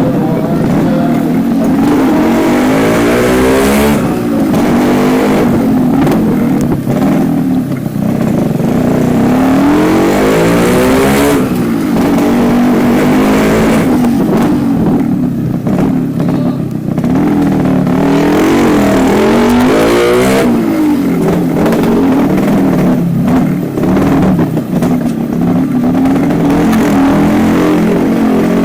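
2009 Yamaha RX-King's two-stroke single-cylinder engine, running through a stock silenced exhaust with only its internal baffle changed, its pitch repeatedly rising and falling as it is revved up and eased off.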